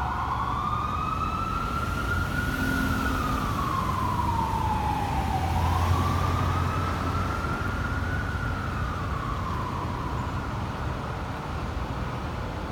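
Fire engine's Whelen electronic siren sounding a slow wail, climbing and falling twice, over the low rumble of the truck's engine as it drives by on a call. The rumble is loudest about halfway through, and the siren's rapid warble changes to the wail right at the start.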